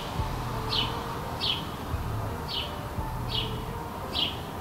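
A small bird chirping: short, high chirps that fall in pitch, repeated about once a second, six times.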